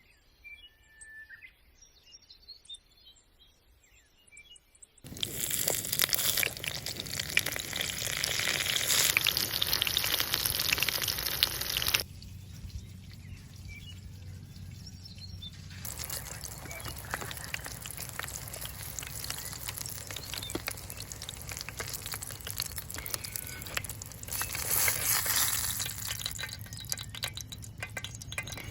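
Birds chirping in quiet outdoor ambience, broken by long stretches of a steady, water-like rushing noise that starts and stops abruptly.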